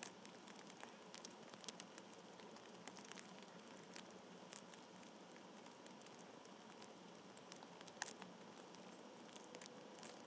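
Near silence: a faint steady hiss with scattered light ticks and taps, the sharpest one about eight seconds in.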